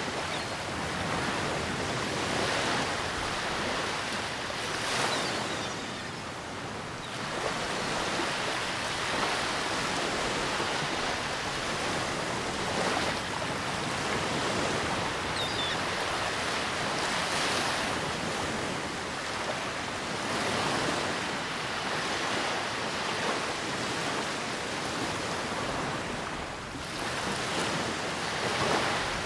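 Ocean surf washing onto a sandy beach, swelling and easing every few seconds, with wind blowing steadily over it.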